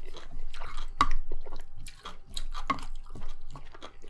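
Close-up wet chewing and smacking of a mouthful of food, a run of sharp wet clicks, a few of them louder.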